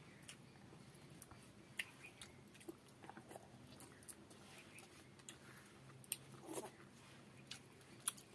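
A person eating close to the microphone: chewing, with wet smacks and sharp clicks scattered through, over a faint steady low hum.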